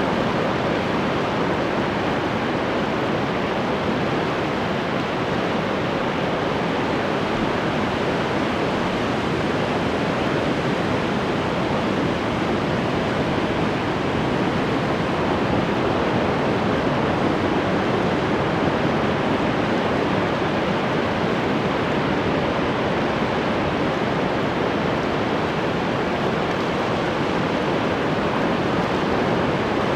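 Ocean surf, a steady, even rush of breaking waves with no separate wave crashes standing out.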